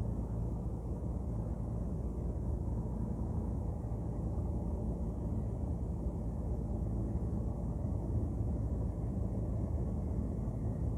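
Ship's engine running steadily: a low, even rumble with a constant hum underneath.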